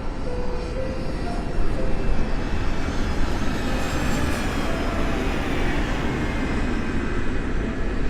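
Jet airliner engines running, a steady rushing noise.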